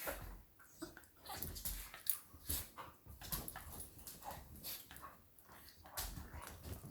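Two beagles play-fighting: irregular scuffling with short, quiet dog vocal noises scattered through it.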